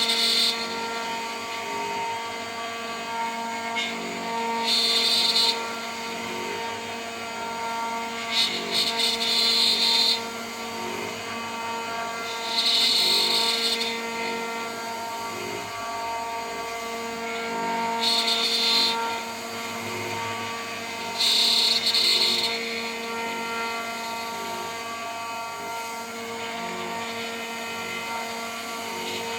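CNC router spindle turning a 3 mm three-flute end mill at 14000 RPM, running with a steady hum. Every few seconds a louder, higher cutting noise lasting about a second comes in as the end mill bites into the workpiece on each pass.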